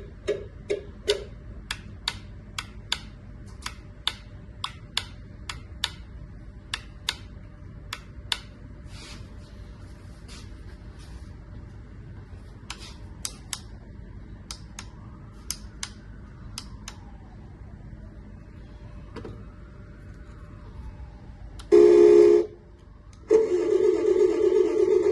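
Electric hydraulic pump motor of a 1/14-scale RC dump truck buzzing loudly near the end, once briefly and then for about three seconds. Before it comes a run of sharp clicks, about two a second, that thin out after eight seconds or so.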